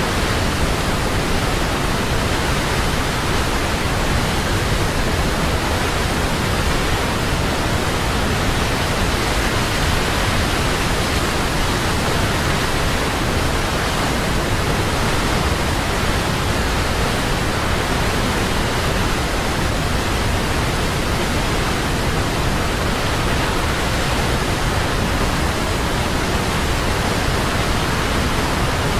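Large waterfall: a steady, loud rush of falling water with no breaks.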